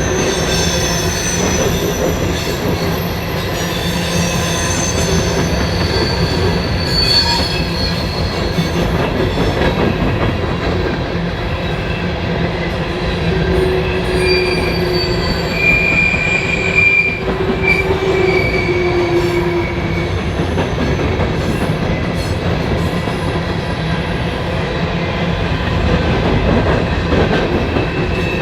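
Train cars rolling past in a steady rumble of wheels on rail, with high-pitched wheel squeal coming and going over it. The squeal is thin and shrill in the first few seconds and returns lower in pitch about halfway through.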